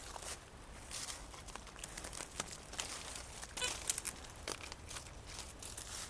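Footsteps through knee-high grass and dry undergrowth: irregular rustling and crackling as the plants are pushed aside and trodden down.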